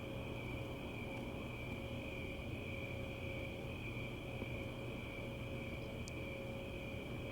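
Crickets trilling steadily in a high, unbroken chorus over an even low background rumble.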